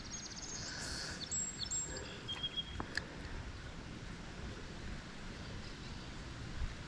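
Outdoor background noise with high, thin bird calls and a quick trill during the first three seconds, and a single sharp click about three seconds in.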